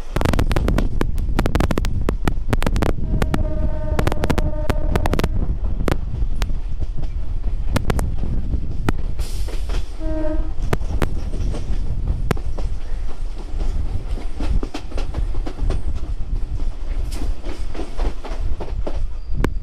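Suburban electric local train running at speed, its wheels clattering steadily over rail joints. A train horn sounds for about two seconds, about three seconds in, and again briefly, about ten seconds in.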